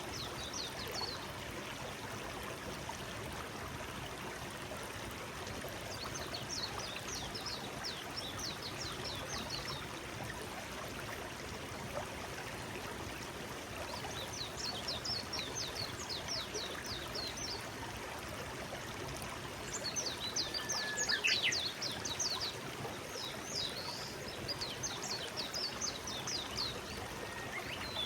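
Forest stream flowing steadily. Over it a small songbird sings several bursts of rapid, high notes, the loudest burst about two-thirds of the way through.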